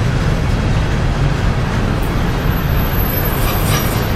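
Double-stack container well cars rolling past close by: a loud, steady rumble of steel wheels on the rails. A thin high squeal comes in about two seconds in and fades out near the end.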